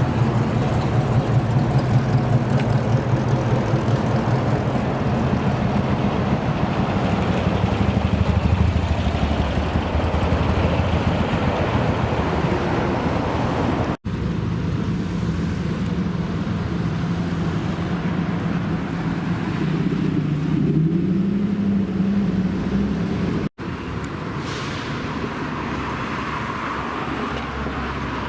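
American muscle car engines running with a low, steady rumble, in three separate clips cut together. In the middle clip the engine note rises briefly, a light rev, near its end.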